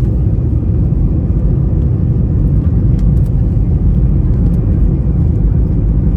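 Steady low rumble inside an Airbus A321's cabin on approach, the engines and the airflow over the fuselage heard from a rear window seat.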